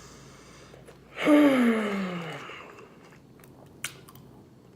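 A woman's long breathy sigh, falling in pitch, about a second in, between quiet chewing sounds and a single sharp click near the end.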